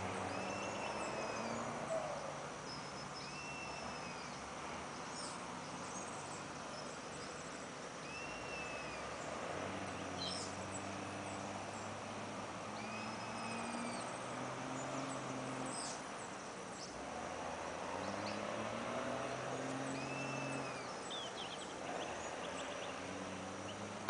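A bird calling in the background: a short, arched whistled note repeated five times a few seconds apart, with a few brief high chirps, over a steady outdoor hiss and a low hum that shifts in pitch in steps.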